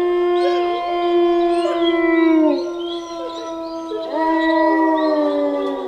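Several canines howling together, with overlapping long held notes that drop in pitch as each one ends; a second round of howls starts about four seconds in.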